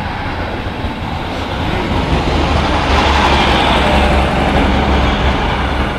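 Class 156 Sprinter diesel multiple unit passing close by over a level crossing: a steady low diesel engine drone under the rumble of wheels on rail, growing louder about two seconds in and staying loud.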